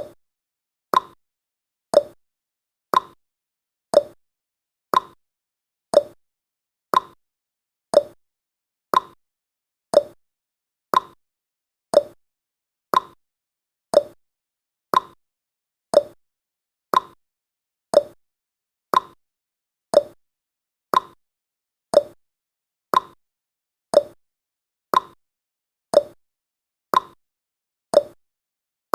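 Countdown timer's clock-tick sound effect: a sharp tick exactly once a second, alternating higher and lower in pitch like a tick-tock, with silence between the ticks.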